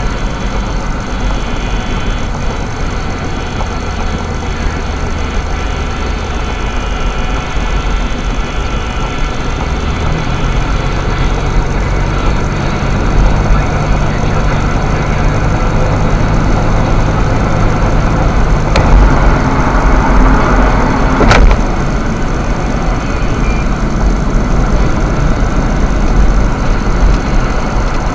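Engine and road noise inside a moving vehicle's cabin, running steadily. The engine note rises about ten seconds in, as if under more throttle, and two sharp clicks come a little past the middle.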